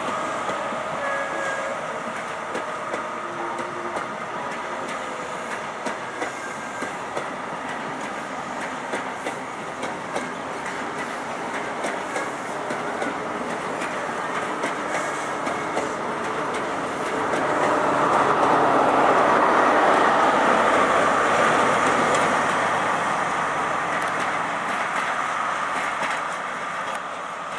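First Great Western High Speed Train running slowly over the station pointwork, its wheels ticking steadily over rail joints and crossings. About seventeen seconds in, the diesel Class 43 power car draws close and the sound swells for several seconds, then eases.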